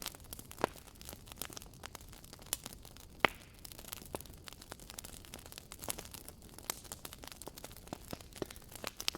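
Wood campfire crackling: irregular sharp pops and snaps over a soft hiss of burning, with one louder pop a little after three seconds in.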